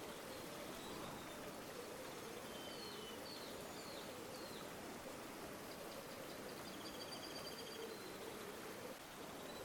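River water flowing steadily. Small birds call faintly over it: a few short chirps a few seconds in and a quick high trill near the end.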